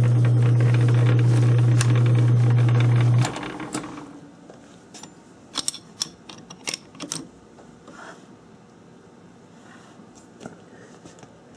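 South Bend lathe's motor running with a steady hum, switched off about three seconds in and winding down. A few light metallic clicks and taps follow as the tooling is handled.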